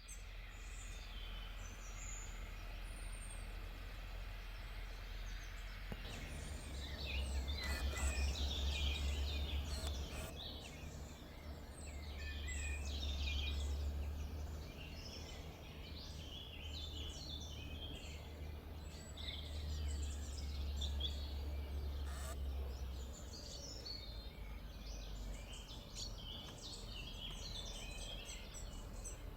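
Several small garden songbirds chirping and trilling at once, many short overlapping calls, over a low rumble that swells for much of the middle, with a few faint clicks.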